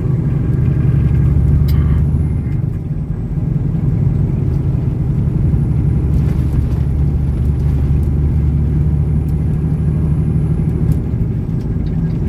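Semi truck's diesel engine and road noise heard inside the cab while driving, a steady low drone.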